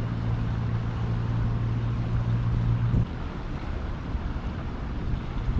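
Wind noise on the microphone, with a steady low hum that cuts off suddenly about three seconds in.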